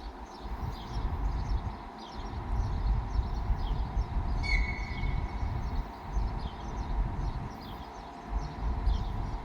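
TEP70 diesel locomotive and its passenger train rumbling slowly into the station, with a steady engine drone underneath and a short high squeal about four and a half seconds in. Small birds chirp repeatedly throughout.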